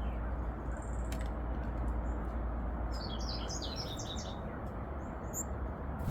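A small forest songbird chirping: a short high note about a second in, a quick run of chirps about three seconds in, then two brief high notes, over a steady low hiss of ambient noise.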